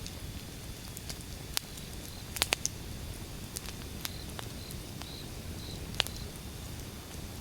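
Wood fire burning, with a low rumble under sharp crackles and pops: a quick cluster of pops about two and a half seconds in and a single loud pop near six seconds.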